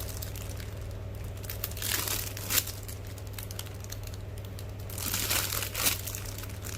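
Crinkling of plastic packaging as a squishy toy is handled, in two spells about two and five seconds in, each with a sharp click, over a low steady hum.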